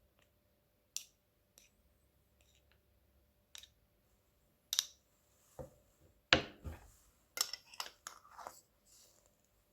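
Kitchen knife chopping minced garlic on a cutting board: irregular knocks and clicks of the blade on the board, some with a short scrape, the loudest a little past six seconds in.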